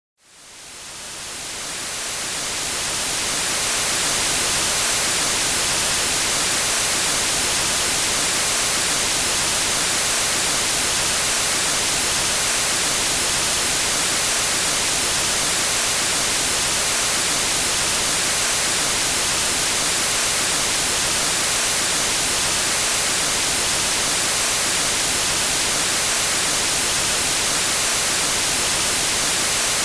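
White noise like an untuned TV's static: an even, steady hiss, strongest in the highs. It fades in from silence over the first few seconds.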